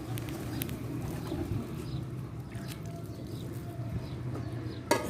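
Outdoor background with a steady low hum and a few faint clicks about half a second in, then a brief loud noise just before the end.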